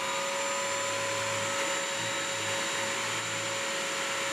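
BISSELL Crosswave wet/dry vacuum running its self-cleaning cycle in its tray, the motor and suction running at a steady whine while the brush roll spins through the cleaning water.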